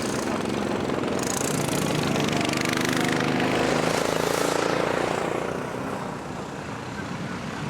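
Racing lawnmower engine passing at speed, growing louder to a peak about halfway through, then fading away.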